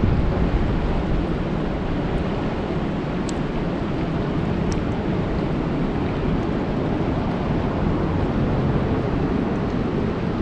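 Steady rain falling on a lake's surface: a dense, even hiss with a deep low rumble, and now and then a sharper single drop tick.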